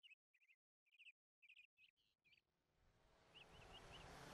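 Near silence broken by faint, short bird chirps repeated in quick little groups; faint outdoor ambient noise fades in about three seconds in, with a few more tiny chirps.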